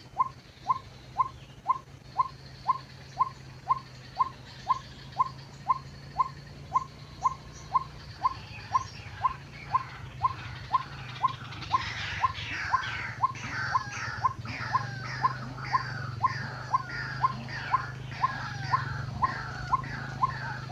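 White-breasted waterhen calls used as a trapping lure: a short falling note repeated evenly about twice a second. About halfway through, a louder, busier chorus of slurred waterhen-like calls joins in. A steady low hum runs underneath.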